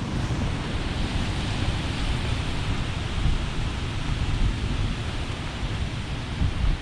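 Storm-force wind blowing through woodland trees, with low gusts buffeting the microphone.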